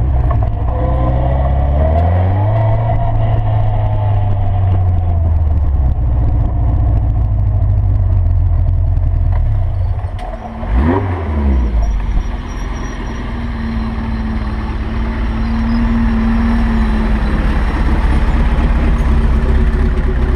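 Seven sports car's engine heard from its open cockpit as it drives slowly. The engine pitch rises about two seconds in and then holds steady. About eleven seconds in there is a quick rev blip that rises and falls, after which the engine settles back to a steady low run.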